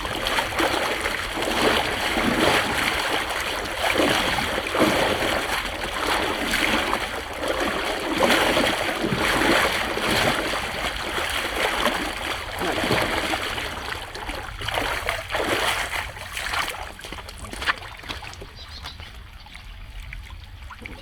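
Floodwater splashing and running at a street drain, with irregular surges of splashing that ease off after about seventeen seconds.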